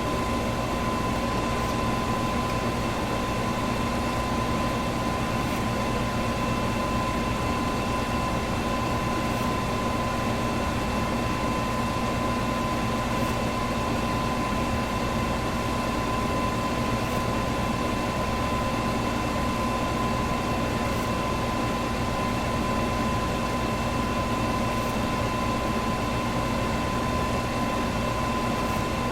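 Electric fan running steadily: an even rush of air with a constant hum and a thin whine held at one pitch.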